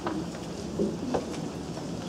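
Steady rumbling hall noise with a few brief, faint voices and small shuffling knocks, as performers get into place.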